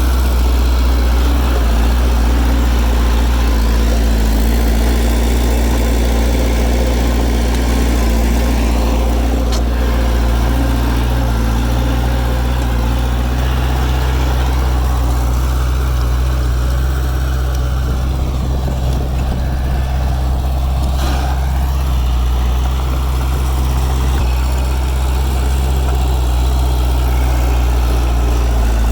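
Heavy diesel earthmoving machinery engine running steadily at low revs, with a brief faint tick about a third of the way in and again past two-thirds.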